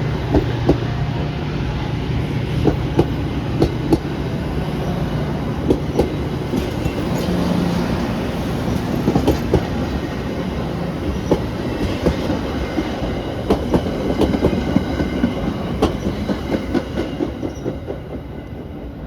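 Train running past on the track, its wheels clicking steadily over the rail joints above a continuous rumble, with a low steady hum in the first few seconds; the sound fades near the end.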